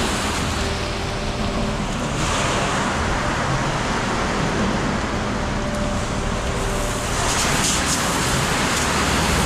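Concrete mixer truck's diesel engine running while a water hose sprays steadily during the washout, the spray a constant rushing hiss over the engine's low drone.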